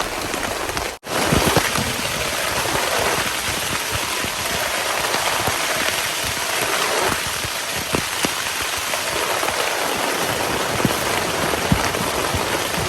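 Heavy rain falling steadily, with scattered heavier drops striking a surface; the sound cuts out for an instant about a second in.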